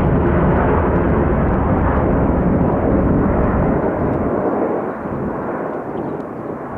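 Airbus A330-200 twin-engine jet airliner's engine noise as it departs, a loud steady rumble. The deep low end fades out from about two-thirds of the way through.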